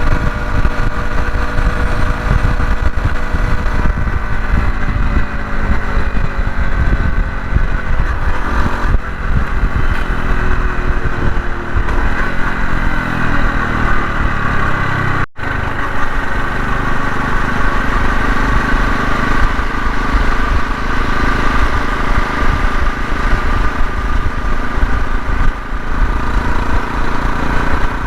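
Honda CT125 Hunter Cub's single-cylinder engine running on the road, with strong wind buffeting the microphone. Engine speed drops steadily for several seconds about a third of the way in, then holds steady.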